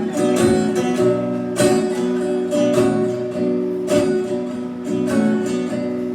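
Acoustic guitar strumming the instrumental intro of a slow country song, each chord left to ring, with a fresh strum about once a second.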